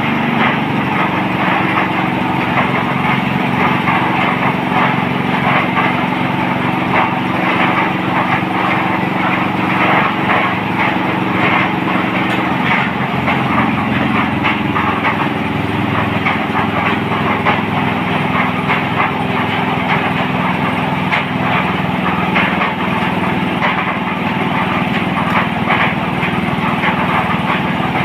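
Small engine of a water-well drilling rig running steadily under load, with a dense fast rattle; its note shifts a little about halfway through.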